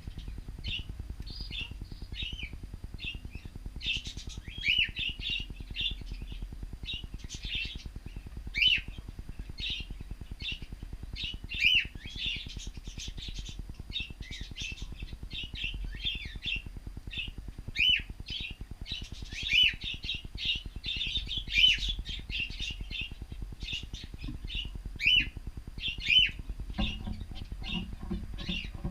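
A flock of cockatiels chirping continuously, short calls several times a second with louder sweeping calls every couple of seconds, over a steady low hum.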